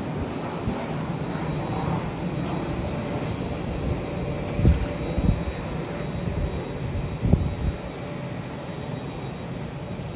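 Jet airliner's engines rumbling steadily as the plane goes by, with a faint high whine partway through. Two short low thumps come about halfway through and again later.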